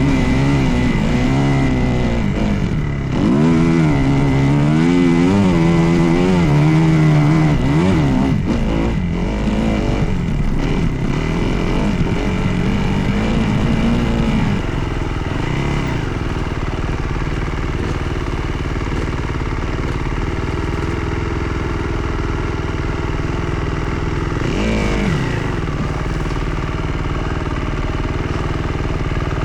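Dirt bike engine being ridden, its note rising and falling again and again for about the first half. It then settles to a steadier, lower sound, with one quick rev up and back down near the end.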